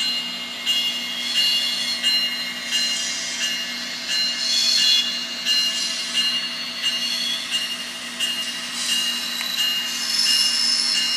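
An N scale Fox Valley Models GP60M locomotive plays its LokSound micro decoder's GP60 diesel sound through its small speaker. A steady engine drone runs throughout, with short hissing swells recurring about once a second over it.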